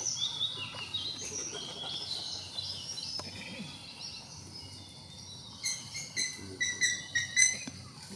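Wild birds calling in the forest canopy: overlapping high whistled notes, many sliding downward. From a little past the middle, a run of about six short, sharp chirps comes louder.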